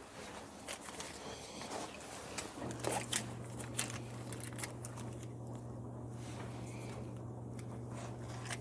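Hand work on a dryer's blower wheel and housing while lint is cleared out: a run of short clicks and rustles. A steady low hum starts about two and a half seconds in and continues.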